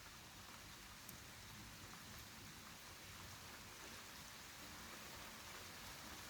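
Light rain falling: a faint, even hiss with an occasional soft drop tick.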